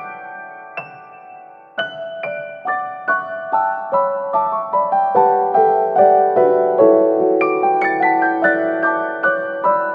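Background piano music: a gentle melody of separate struck notes in a steady pulse, with a sustained lull about a second in before the notes resume.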